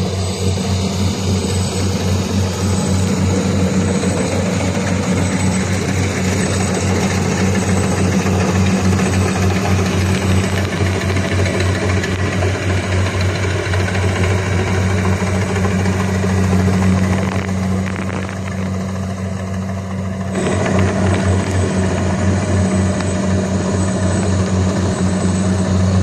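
Kubota rice combine harvester's engine running steadily with a low, even hum; it eases off for a few seconds past the middle, then comes back up.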